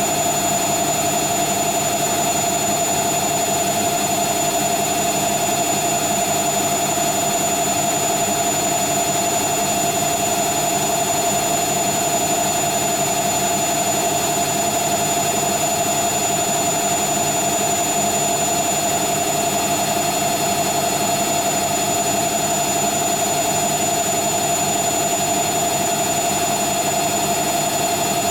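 Hoover Nextra HNL71463D washing machine on its final spin, the drum held at a steady high speed: a constant high-pitched motor whine over an even rushing noise.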